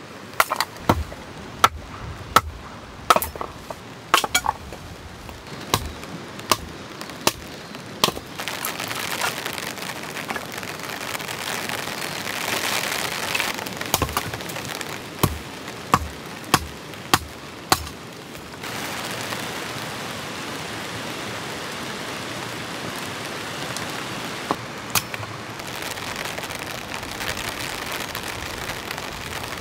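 Firewood being chopped: sharp blows come roughly once a second, over the hiss of rain. About two-thirds of the way through the chopping stops and only steady heavy rain remains, with an odd knock.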